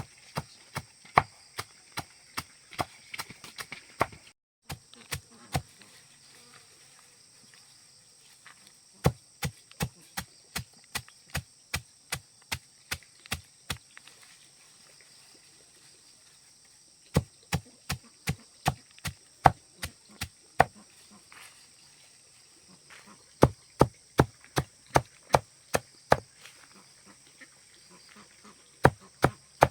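Runs of sharp chopping strokes, about two a second, stopping and starting with pauses of a few seconds. Insects keep up a steady high buzz behind.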